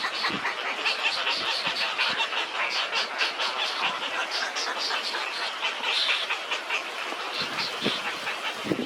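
Dense chorus of short, high bird calls from many birds at once, with a lower call coming in near the end.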